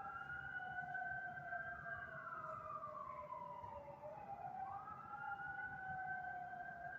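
Faint fire truck sirens wailing: two siren tones slowly rise and fall and cross each other, each sweep lasting a few seconds.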